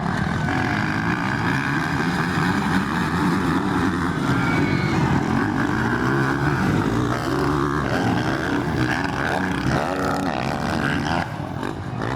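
Motocross bike engines running and revving as the bikes race past, the pitch rising and falling with the throttle.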